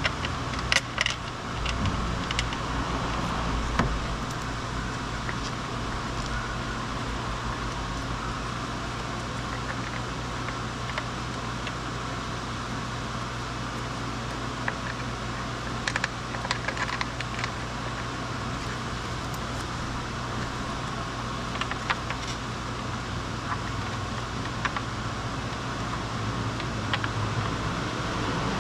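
A steady low mechanical hum, with scattered light clicks and taps.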